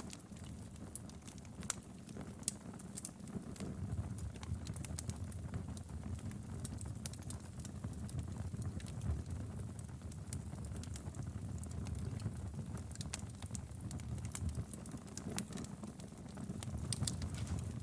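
Wood fire burning in a fireplace: a steady low rumble of flames under many irregular sharp crackles and pops.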